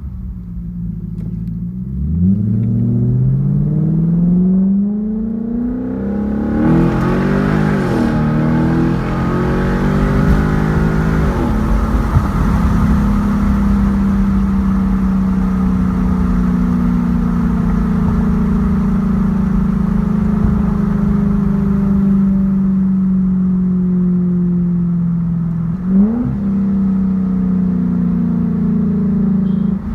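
A 2007 Infiniti M45S's 4.5-litre V8 engine and exhaust on the move. The pitch climbs as the car accelerates, with gear changes about seven and eleven seconds in. It then settles into a steady drone while cruising, with a brief blip a few seconds before the end.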